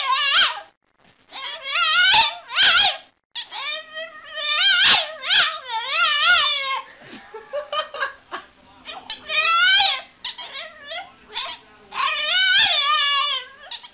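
French bulldog puppy howling in a string of long, high-pitched calls whose pitch wavers up and down, with brief pauses between them.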